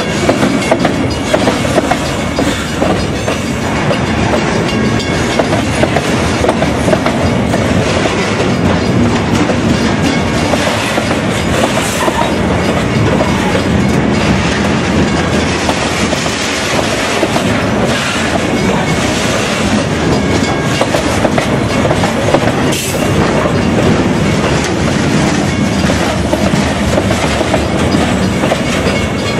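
Freight train rolling past, its wheels knocking steadily and rhythmically over the rails.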